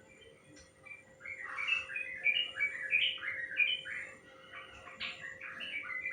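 Yellow-vented bulbul song: a long, fast run of short chirping notes that jump up and down in pitch. It starts about a second in.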